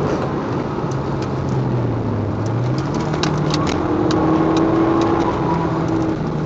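Audi TT 1.8 Quattro's turbocharged four-cylinder engine running at speed, heard from inside the cabin over steady tyre and wind noise. Its pitch dips about two seconds in and then climbs again, with a few light ticks in the middle.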